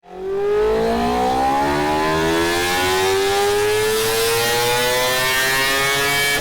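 Yamaha RX135's air-cooled two-stroke single-cylinder engine under way, its pitch rising slowly and steadily as the revs climb.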